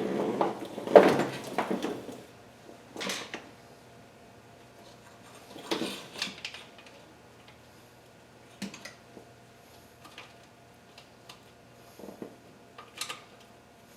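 Metal hand tools and parts clattering and clanking for the first two seconds, then scattered light clicks and taps of tools against metal.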